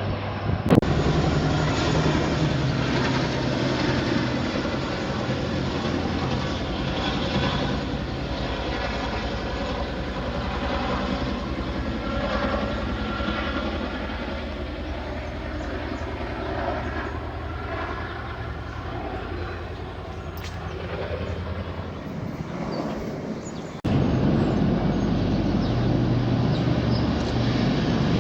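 Helicopter running overhead: a steady low engine and rotor drone with rapid blade chop. It jumps suddenly louder about 24 seconds in.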